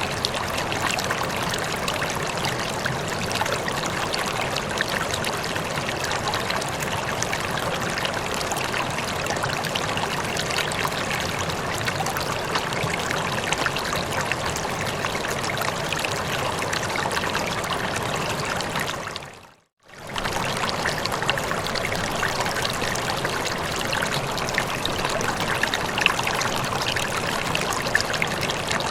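Steady running water, like a stream flowing. About twenty seconds in it fades briefly to silence and comes straight back, as at the join of a looped recording.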